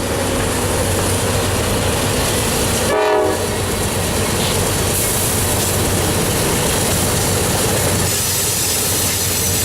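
Norfolk Southern freight train led by GE Dash 9-40CW diesel locomotives, heard as a steady loud rumble of diesel engines and of wheels running over the rails. About three seconds in there is a brief pitched tone.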